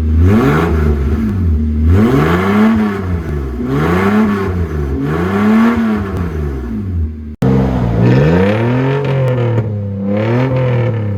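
Straight-piped Toyota Land Cruiser 80-series 1FZ-FE inline-six with its muffler removed, revved in repeated blips, each one rising and falling in pitch. The sound cuts out abruptly about seven seconds in, then the revving picks up again.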